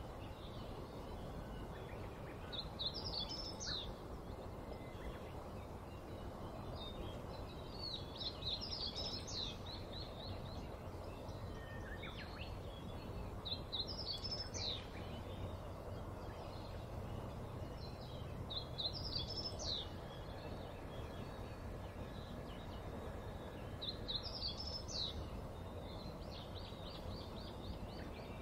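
A small songbird singing a short, quick phrase of high notes about every five seconds, over steady outdoor background noise.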